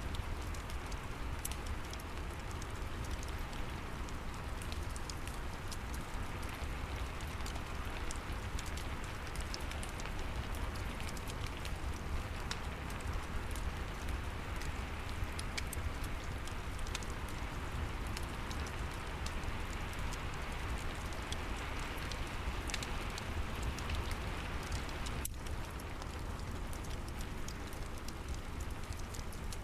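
Steady rain with a low rumble, with the scattered pops and crackles of a wood fire in a fireplace.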